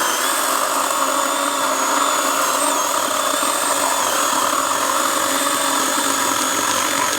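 Kobalt 80V Max battery chainsaw running at a steady high speed: an even electric motor and chain whine.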